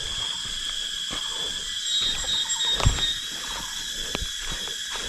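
Steady high-pitched insect chorus in subtropical forest, with irregular low thumps and rustles under it. The loudest thump comes about three seconds in.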